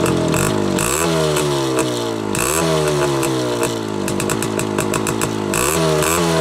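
Voskhod 3M 175 cc two-stroke motorcycle engine running with its shortened exhaust baffles still fitted, revved three times, each rev rising sharply and then falling away slowly.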